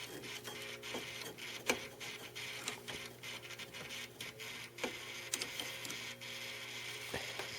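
GE Advantium microwave's damper motor humming steadily, with irregular small clicks, while the oven is switched off: the motor keeps trying to open a damper door that is already open.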